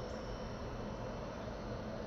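Steady outdoor background hiss with a faint, continuous high insect drone.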